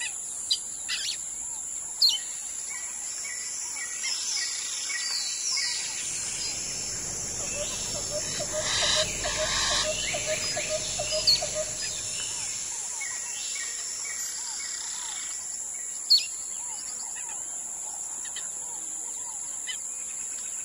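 Wild birds calling with scattered sharp chirps over a steady high-pitched drone. A low rumble swells for several seconds in the middle, with a quick run of short repeated notes at its height.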